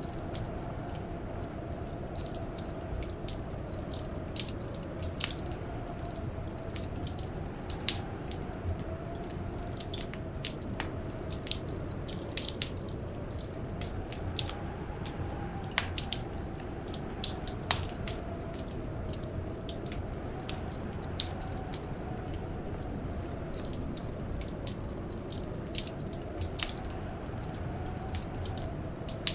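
Wood fire crackling with many irregular sharp pops, over a steady low rumble and a faint wind howl that slowly rises and falls in pitch.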